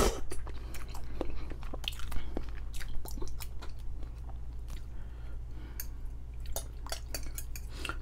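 A person chewing noodles close to the microphone, with many small wet mouth clicks scattered throughout, after a short slurp of noodles at the start.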